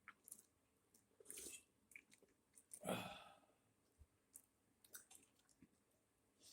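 Faint chewing and small mouth clicks while eating, with one breath, a half-second exhale, about three seconds in.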